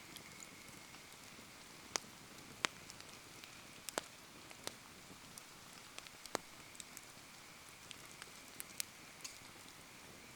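Bonfire burning in the rain: steady rain patter and hiss under irregular sharp crackles and pops from the burning wood, about a dozen in ten seconds.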